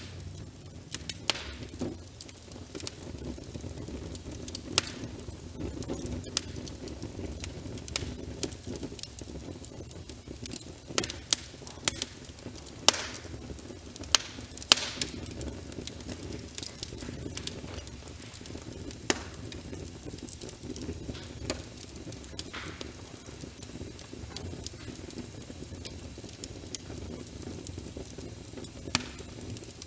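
Wood fire crackling in a fireplace, with irregular sharp pops, a few of them louder, over a steady low rush of rain.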